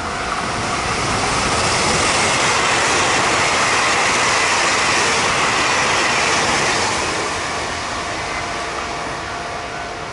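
TEMU2000 Puyuma Express electric multiple-unit train passing at speed: a rushing noise of wheels on rail that builds as it approaches, is loudest for several seconds while the cars go by, then fades as the train draws away.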